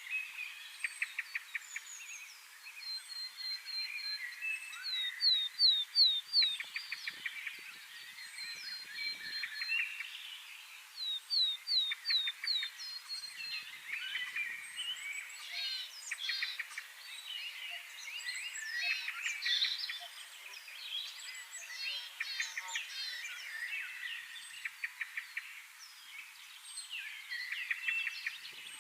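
Outdoor chorus of many birds calling at once: repeated groups of quick high downward whistles, a held whistled note, and fast rattling chatter, overlapping without pause.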